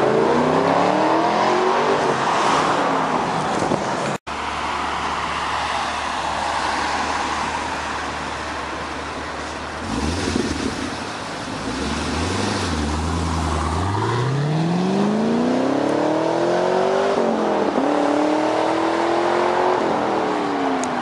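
2010 Chevrolet Camaro's engine through Kooks headers and a 3-inch cat-back exhaust with stainless oval mufflers, accelerating with the pitch climbing. After a steadier lower drone the engine climbs again in a long rising pull, dips briefly and rises once more, then falls away near the end.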